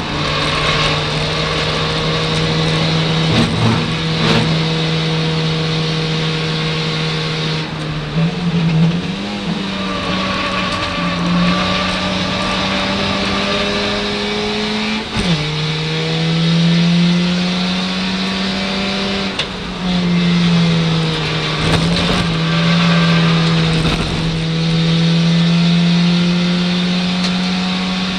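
Ford Fiesta Zetec race car's four-cylinder engine heard from inside the cabin at racing speed, held high and steady on the straights, dipping and climbing again with gear changes and lifts through corners. A few sharp knocks come through the body along the way.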